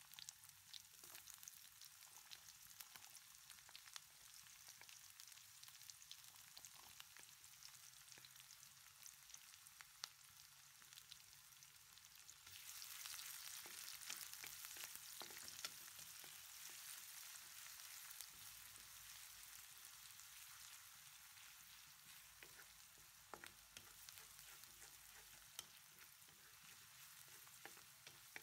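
Chopped onion and garlic faintly sizzling in hot oil, with a wooden spatula scraping and clicking against the pan as it is stirred. The sizzle grows louder a little under halfway through.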